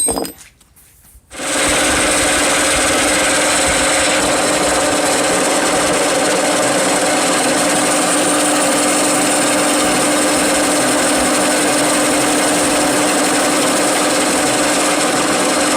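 Power tool running steadily while the steel sprocket blank, mounted on a mandrel, is ground true; the noise starts abruptly about a second in and holds evenly throughout.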